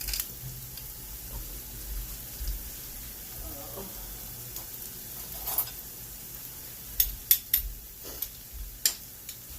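Food frying in a pan with a steady faint sizzle, and stirring. Several sharp clicks and knocks of kitchen utensils come in a cluster near the end.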